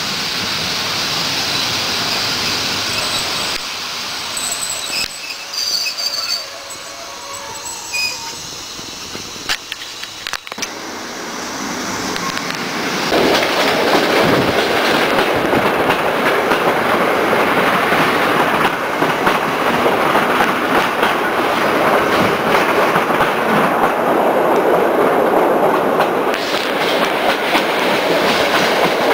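Passenger train rolling along the track, heard through an open carriage window. A few seconds in, thin high squeals come from the wheels and a couple of sharp clacks from points or rail joints. From about halfway the rolling noise grows loud and holds steady.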